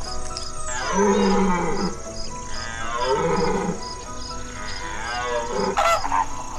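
An animal giving two long, drawn-out calls one after the other, then a shorter one near the end, over background music with a light regular beat.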